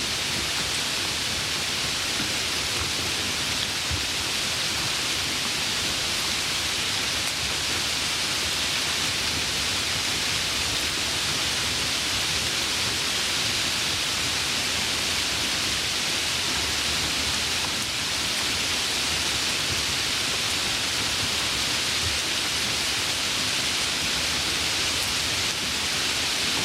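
Steady rain falling, an even hiss with a faint patter of drops underneath.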